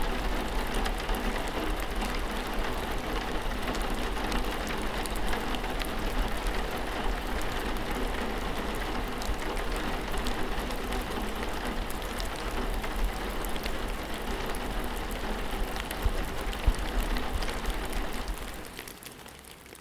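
Steady rain falling, a dense patter of drops with a couple of louder drips near the end, then fading out over the last second or so.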